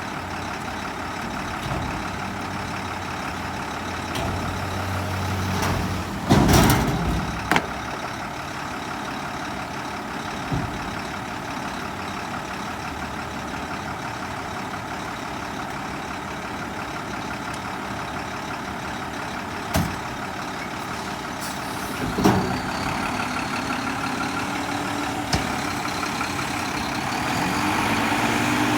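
Mack front-loader garbage truck with a Heil body running steadily, with a short loud hiss of air about six seconds in and several sharp metal knocks. The engine revs up near the end.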